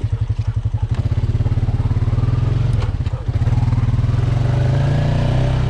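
Off-road vehicle engine going from a low, pulsing run to hard revving about a second in, dipping briefly near three seconds, then held high, with a faint rising whine.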